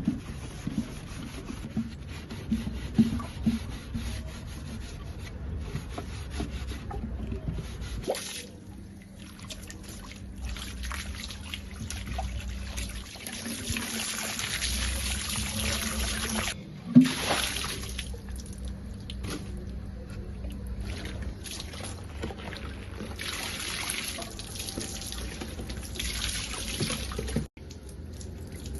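Water trickling and pouring, as in washing and rinsing, in several short takes. A few knocks near the start and a sharp knock about seventeen seconds in.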